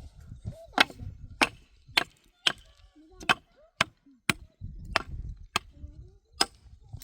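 Repeated chopping blows into wood with a hand tool: about ten sharp, separate strikes at an uneven pace, roughly one every half second to second.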